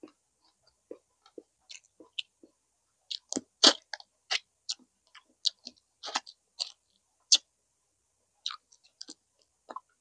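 Close-miked chewing and eating of grilled chicken inasal: irregular wet mouth smacks and sharp clicks of biting, loudest a little before four seconds in.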